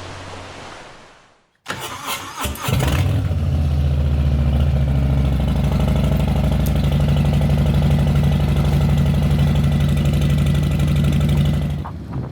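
An engine cranks briefly and starts, then runs at a steady idle for about nine seconds before dropping away near the end.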